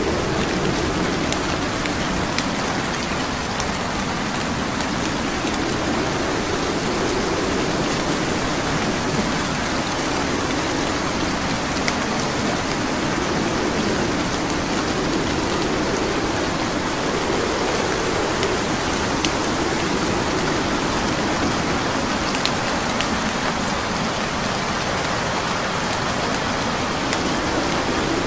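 Steady rain, with sparse sharp crackles and pops from logs burning in a fireplace scattered through it.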